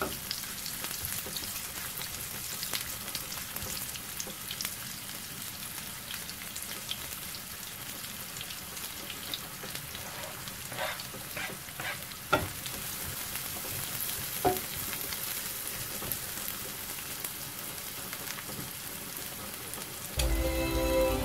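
Sliced onions and garlic frying in oil in a pan, a steady sizzle with scattered clicks of a spatula stirring them. Music comes in about a second before the end.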